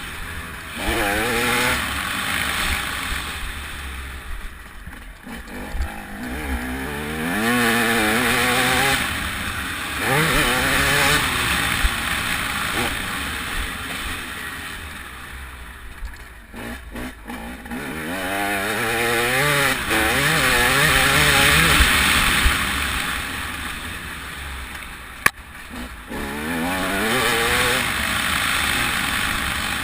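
TM 300 two-stroke single-cylinder motocross bike engine, heard from onboard while ridden round the track, revving up and dropping back over and over, with rushing wind on the camera microphone. A sharp knock late on.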